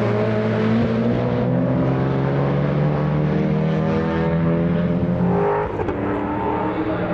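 Race car engine running hard at high revs, its pitch slowly sinking for about five seconds, then falling away sharply about five and a half seconds in.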